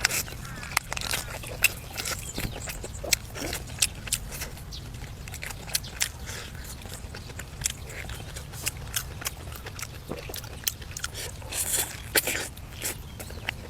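Close-miked eating of braised duck and vegetables: biting and chewing, with many irregular sharp crunches and smacks over a low steady hum.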